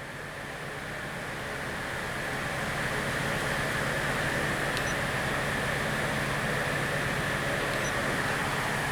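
Hyundai D4CB four-cylinder diesel engine running with a steady mechanical hum and a faint high whine, growing louder over the first three seconds and then holding even.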